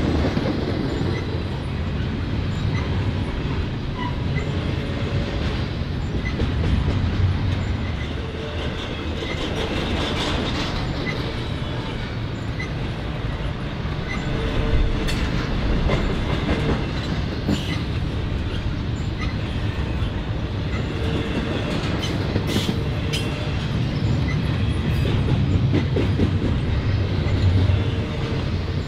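Freight train rolling steadily past, the continuous noise of its cars' wheels running on the rails.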